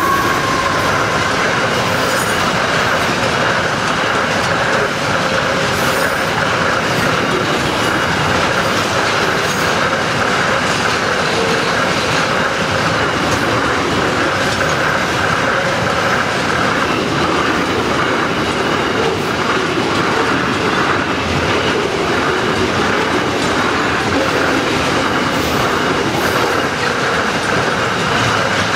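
Freight train of flat wagons loaded with steel coils rolling steadily past, wheels clattering over the rails with some wheel squeal.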